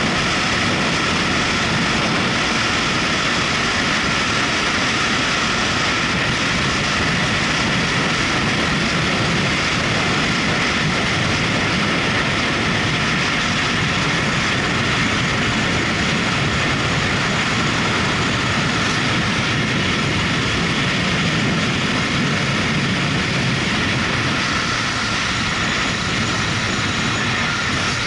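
Motorcycle riding at a steady pace: the engine runs evenly under a steady rush of wind and road noise.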